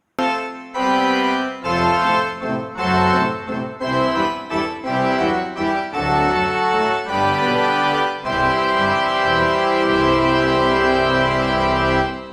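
Background music played on organ-like keyboard tones, a series of chords ending in a long held chord that cuts off just before the end.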